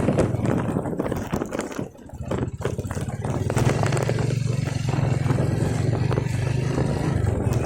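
An engine running steadily with some clatter, dropping away briefly about two seconds in before running steadily again.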